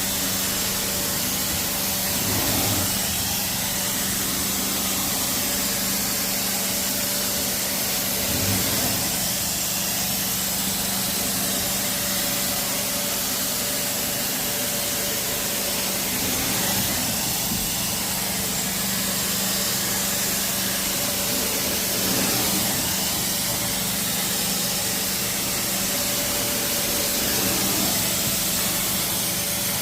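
Carpet-cleaning extraction wand spraying and vacuuming at high pressure (600 psi) as a steady hiss, over the constant hum of the cleaning machine.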